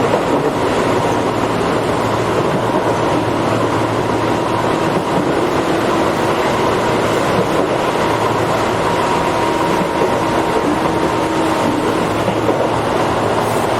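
Tobu 8000-series electric commuter train running, heard from inside the passenger car: steady rail and running noise with a humming tone from the drive, one higher steady tone fading out about ten seconds in.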